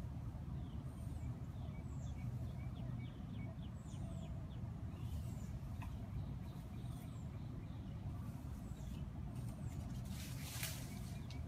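Birds chirping outdoors: short high calls repeating about once a second over a steady low rumble, with a brief rustling burst near the end.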